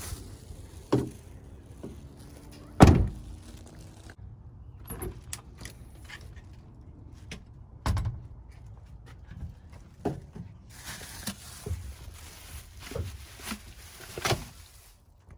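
Irregular thuds, knocks and clicks of things being handled in and around a truck, with one loud thud a little under three seconds in and smaller knocks scattered after it.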